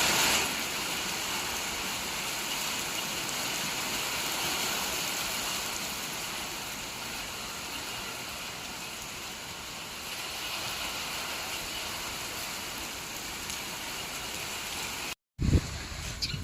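Heavy rain pouring down in a downpour, a steady dense hiss. It cuts off abruptly about a second before the end.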